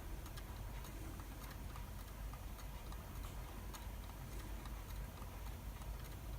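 Quiet outdoor ambience: a low steady rumble and hiss with faint, irregular little ticks and clicks scattered through it.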